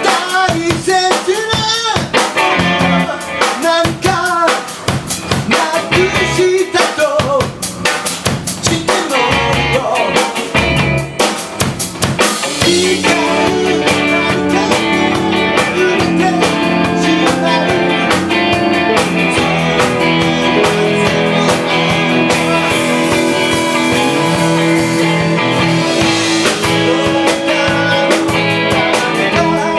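Live band playing, with a drum kit prominent: busy drum hits and wavering, bending instrument lines, then the band settles into steadier held chords about twelve seconds in.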